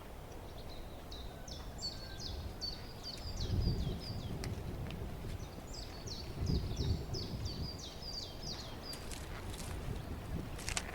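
A small songbird singing two runs of short, high, down-slurred notes at about four notes a second, over low outdoor background noise with two brief low rustles.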